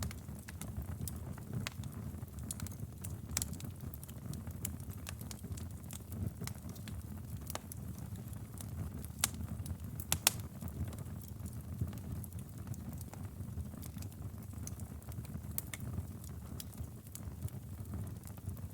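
Wood fire burning in a fireplace: a steady low roar of flames with irregular sharp crackles and pops, the loudest pair about ten seconds in.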